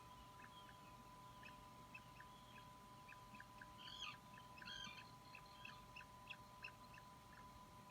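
Puffin chick peeping faintly: short, high cheeps repeating several times a second, with a slightly louder cluster about halfway through, over a steady electronic tone.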